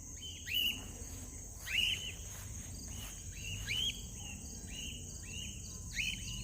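Steady high-pitched chirring of crickets, with short rising-and-falling bird calls about six times, faint and distant.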